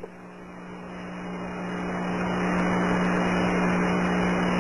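Steady low hum with hiss on a police radio recording between transmissions, slowly growing louder.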